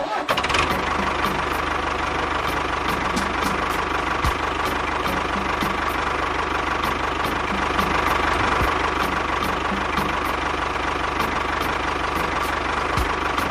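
Tractor engine running steadily with an even knocking rhythm, the sound for a miniature tractor driving. It starts abruptly and fades out near the end.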